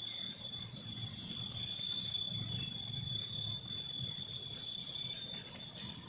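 Forest insects, such as crickets or cicadas, giving a steady high-pitched drone over a low rumble, with a few light clicks near the end.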